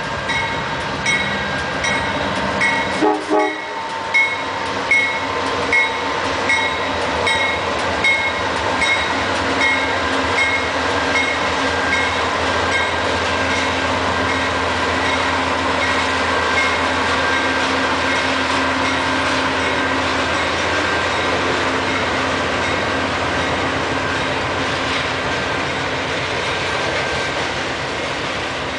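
Norfolk Southern freight train passing close by: diesel locomotives running past, then a long string of hopper cars rolling on the rails in a steady rumble. A regular clicking about twice a second fades out after the first dozen seconds.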